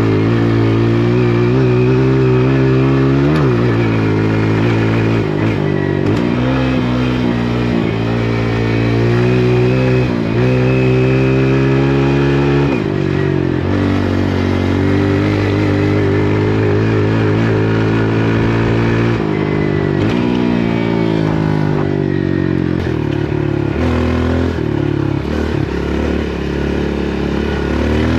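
Dirt bike engine running under way, its pitch rising and falling with the throttle and dropping abruptly a few times.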